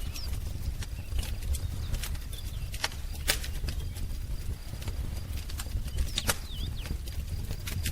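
Wood fire crackling, with irregular sharp pops (the loudest about three seconds in and again about six seconds in) over a steady low rumble of the flames. Faint short bird chirps come in near the start and again near the end.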